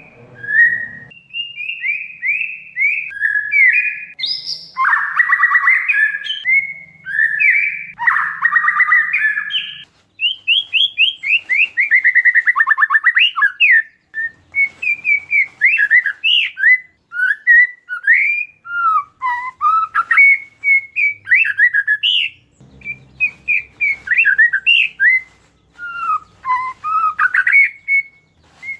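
Oriental magpie-robin (kacer) singing a varied song of short whistled notes and glides, broken by two harsh, buzzy chattering bursts in the first third and a rapid falling run of notes just after.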